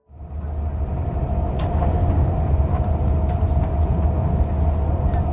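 A train rumbling deep and steady, with a steady mid-pitched hum over it and a few faint clicks.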